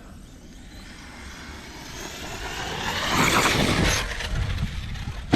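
Electric RC truck (Arrma Kraton 6S with a Hobbystar 1730kv brushless motor) accelerating hard: the motor and drivetrain whine rises in pitch and loudness, peaks about three to four seconds in, then falls away. A sharp knock comes near the end.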